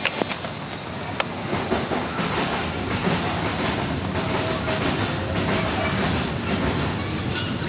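A steady, high-pitched hissing drone that sets in sharply at the start and holds at an even level, with faint clicks underneath.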